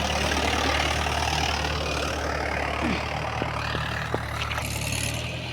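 Mahindra 275 DI tractor's three-cylinder diesel engine running steadily at a low, even speed, getting gradually quieter toward the end.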